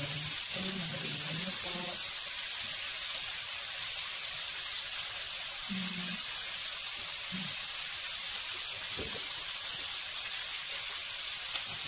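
Green beans sizzling steadily in hot oil in a frying pan, a continuous even hiss.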